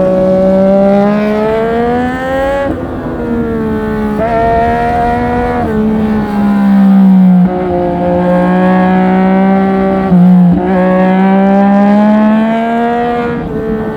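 Triumph Street Triple 765 RS's inline three-cylinder engine pulling hard under acceleration. It climbs steadily in pitch, then drops back sharply, about four times, with a long climb in the second half.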